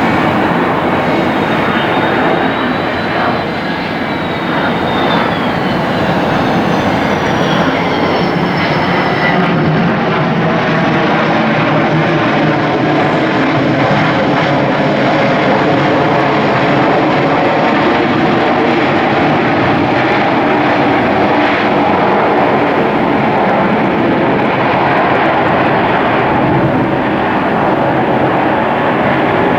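Boeing 747-8's four GEnx turbofan engines at takeoff thrust during departure: a loud, steady jet roar. In the first few seconds thin whining tones slide in pitch over it, and the hiss fades after about a third of the time.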